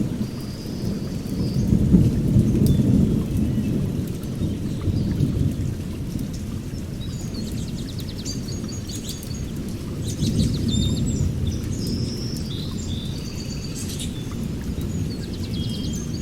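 A low rolling rumble that swells and fades twice, with small birds chirping and trilling above it.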